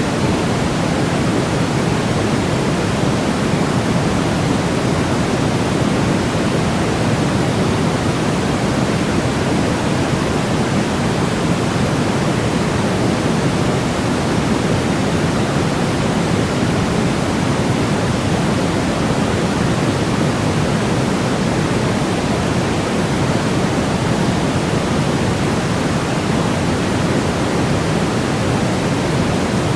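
Steady, unbroken white noise for baby sleep, a continuous hiss leaning toward the low end, with no change or events.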